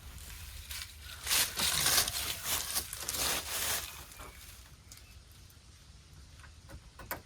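Rustling and scuffing handling noises as solar panel wiring is pulled and arranged, loudest in the first half, with a sharp click near the end.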